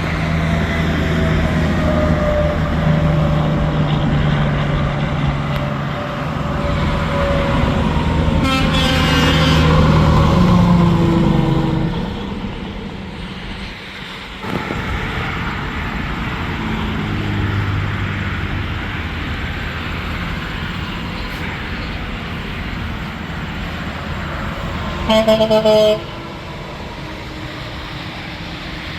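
Semi-trucks passing on a highway, engine and tyre noise with the engine pitch dropping as a truck goes by, then a truck's air horn blasts once for about a second near the end.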